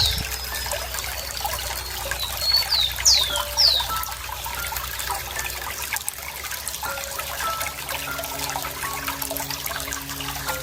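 Running water trickling steadily, with a bird calling a quick series of high whistled notes that sweep sharply downward, about three seconds in.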